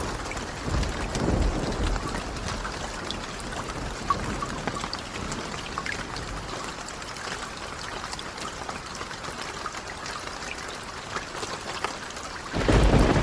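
Steady rain falling, with scattered small pops. A low roll of thunder swells briefly about a second in, and a louder thunder rumble starts suddenly near the end.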